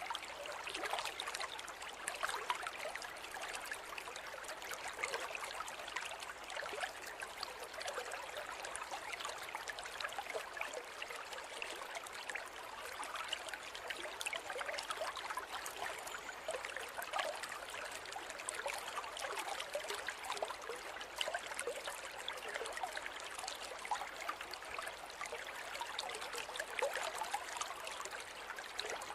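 Forest river running over stones, a steady babble of small splashes and trickles without any deep rumble.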